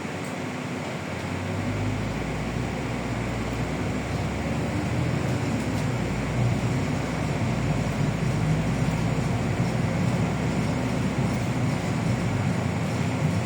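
Inside a LiAZ 6213 articulated city bus on the move: steady diesel engine drone and road noise. About two seconds in, a deeper low rumble joins and the sound grows a little louder, then stays steady.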